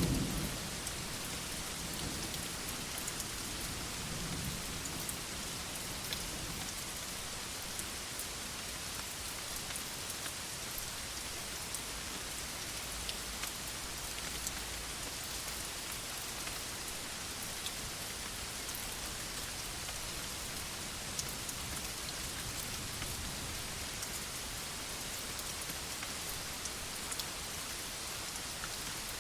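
Steady rain falling on a veranda, an even hiss dotted with small drop ticks. The tail of a low thunder rumble fades out in the first second.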